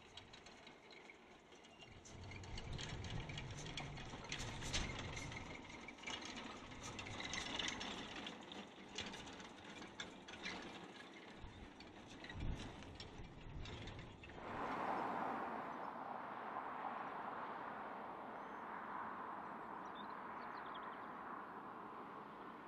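Narrow-gauge train running past, its wagons rattling and clanking irregularly on the track. About two-thirds of the way through, this gives way abruptly to a steady hiss that slowly fades.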